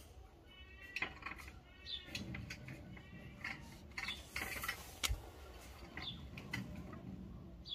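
Birds chirping and calling in short repeated notes, with a few sharp clicks, the loudest about a second in and about five seconds in.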